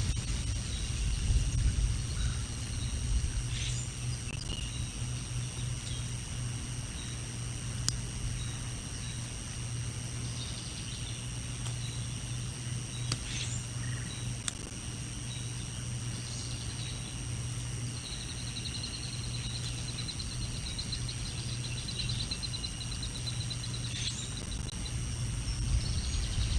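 Wind buffeting an outdoor nest-cam microphone as a steady low rumble, with a few faint, scattered bird chirps and a thin high trill lasting several seconds.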